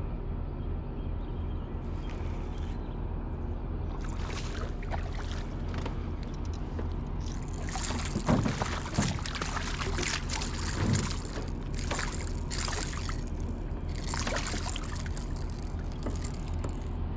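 A boat motor running steadily under water splashing, with a run of louder splashes in the middle, the loudest about eight and eleven seconds in. The splashing is that of a hooked striped bass thrashing at the surface.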